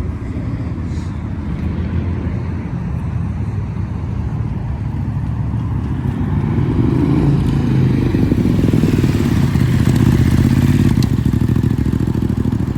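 Motorcycle engine running, growing louder about halfway through and staying loud to the end.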